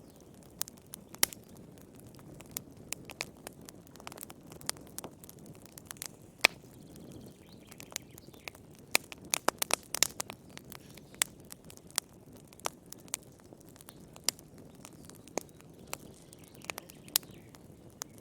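Wood fire crackling in a fireplace: irregular sharp pops and snaps over a low, steady rustle, coming thickest about halfway through.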